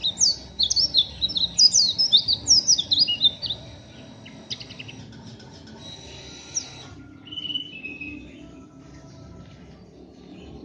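White-eye (pleci) giving a rough, rapid twittering of short chirps for about three and a half seconds, then only a few scattered calls. This coarse twittering is typical of a raw, not yet trained bird.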